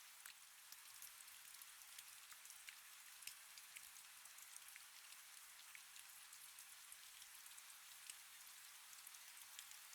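Faint, steady rain: a soft hiss with many separate drops ticking through it.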